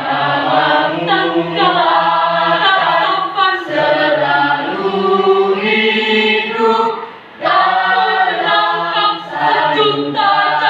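Junior high school choir of teenage students singing, with a short break between phrases about seven seconds in.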